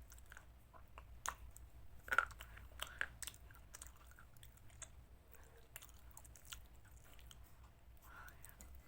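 A person chewing chicken salad, with wet chewing and a few sharp, crisp crunches; the loudest crunch comes a little over two seconds in.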